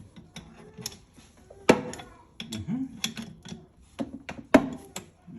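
Irregular clicks and knocks of pipe parts being handled and fitted together, with two sharper knocks standing out, one a little under two seconds in and one about four and a half seconds in.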